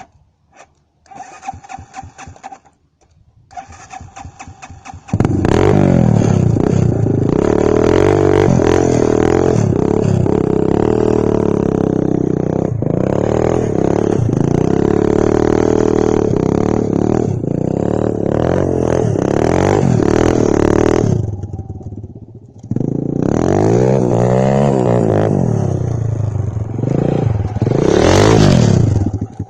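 Zongshen 200 cc single-cylinder dirt bike engine, first ticking over quietly, then revved hard about five seconds in. Its pitch swings up and down repeatedly while held at high revs for long stretches. It drops away briefly about three-quarters of the way through before revving up again.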